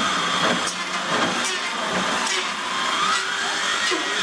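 An electric power tool's motor running, its whine dipping and then rising as the load on it changes, falling off again near the end.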